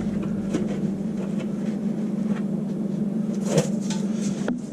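Light clicks and handling knocks as the water heater's element access cover is fitted back on, over a steady low hum, with a short squeak about three and a half seconds in.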